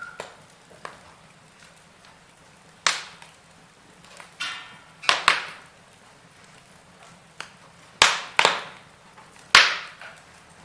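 Wood fire in a fireplace crackling, with about six sharp pops of burning wood and a brief hiss a little before the middle.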